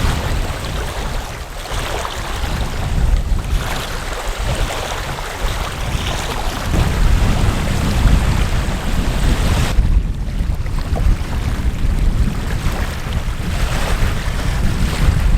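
Strong, gusty wind buffeting the microphone: a heavy low rumble and rushing hiss that swell and ease from gust to gust.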